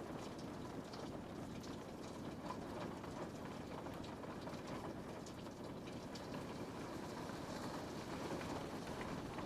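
Steady rain pattering on a window pane, a continuous hiss of falling rain with many small scattered drop ticks.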